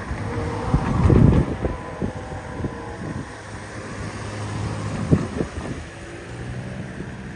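GO Transit diesel locomotive running in the distance, a low steady drone, with wind buffeting the microphone, heaviest about a second in.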